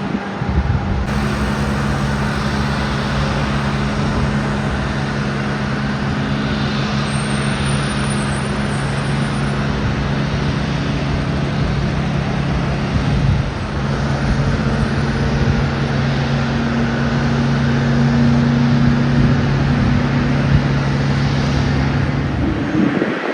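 Steady, loud engine rumble with a low drone that holds for about twenty seconds, then cuts off abruptly at the end.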